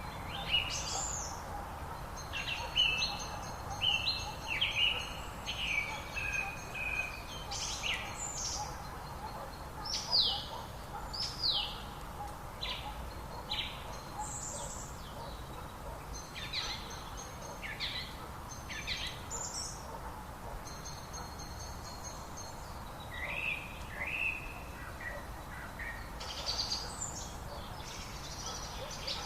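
Wild songbirds singing and calling: a busy mix of short high chirps, whistled phrases and quick falling notes, overlapping and repeating, over a steady background hiss.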